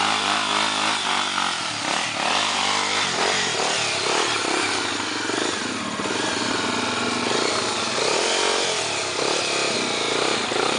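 Off-road dirt bike engine revving hard and unevenly, its pitch rising and falling over and over.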